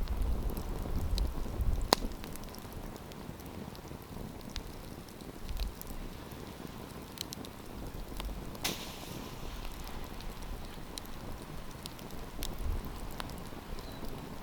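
Wood campfire crackling: scattered sharp pops over a steady hiss, with a loud crack about two seconds in and another near the middle followed by a brief hiss.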